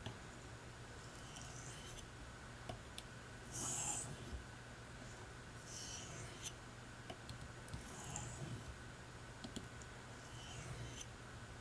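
Knife blade being stroked lightly along an oilstone, four faint rasping swishes about two seconds apart, the first the loudest, as the edge is polished. A faint steady hum underneath.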